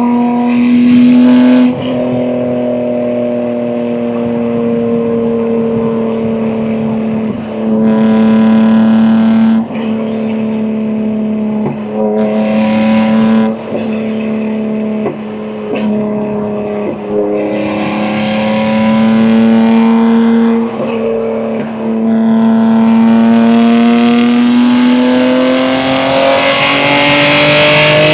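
BMW M2 G87's S58 twin-turbo straight-six, running through catless downpipes and an equal-length mid-pipe, driven at a cruise with manual gear changes. Several one-to-two-second surges of throttle, with the note breaking at each shift, and a longer pull near the end with the pitch slowly rising.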